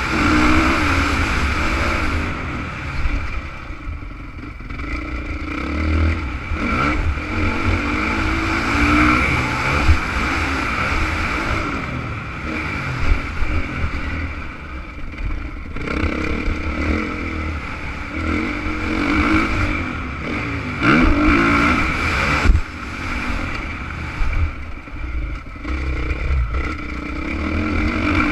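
Honda CRF 450 motocross bike's single-cylinder four-stroke engine being ridden hard, revving up and down again and again as the throttle opens and closes through the track.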